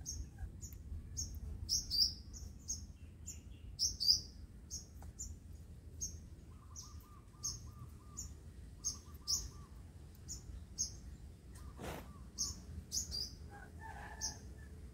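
Small birds chirping: short, high, falling chirps repeat about twice a second. A lower, rapid trill comes twice in the middle, over a steady low rumble.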